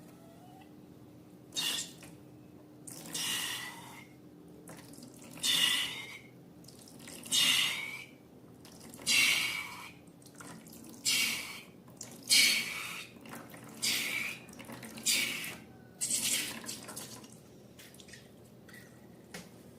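Slime being squeezed and worked by hand, giving about ten short wet squelches, one every second or two.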